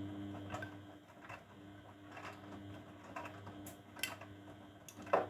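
Grundig washing machine drum turning a load of coloured laundry, a steady motor hum with swishing water and light clicks and knocks about once a second, the loudest knock near the end.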